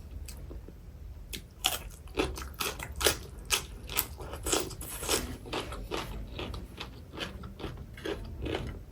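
Close-miked chewing and biting of crispy fried chicken wings: a run of irregular, crisp crunches, one or two a second, with wet chewing between them.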